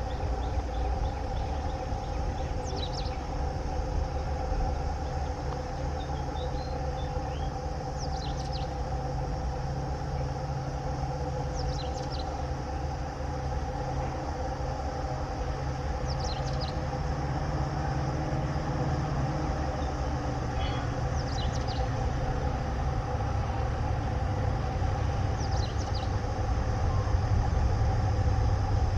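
Diesel-hauled petroleum tanker goods train running, a steady low rumble with a steady engine drone that grows louder toward the end. Short high chirps come about every four seconds.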